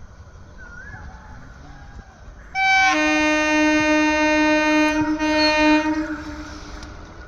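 WAP-4 electric locomotive's horn sounding one long, steady blast of about three and a half seconds, starting a little over two seconds in and then fading.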